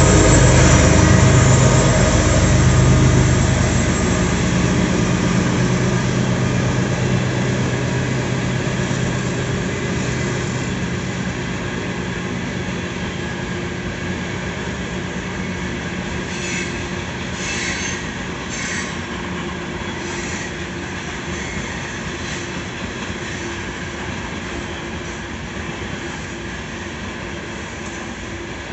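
Loaded coal train's hopper cars rolling past, a continuous rumble of wheels on rail that slowly grows quieter. A low engine hum fades out over the first few seconds, and a few brief high squeals come about two-thirds of the way through.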